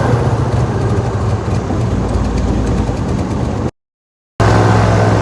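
A boat engine running loudly and steadily. It cuts out abruptly for under a second and then comes back with a low, even pulse.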